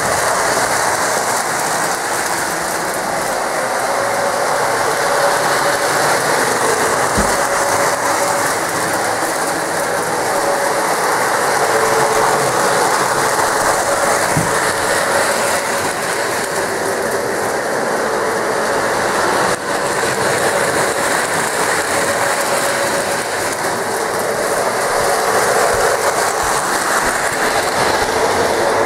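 Lionel O-gauge New York Central diesel model train running around its track loop, its motor and gears whirring steadily and its wheels rattling over the rails.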